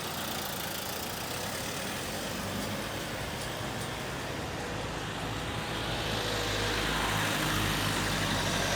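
Road vehicle noise: a steady wash of traffic sound, with a low engine rumble that grows louder over the last few seconds as a vehicle approaches.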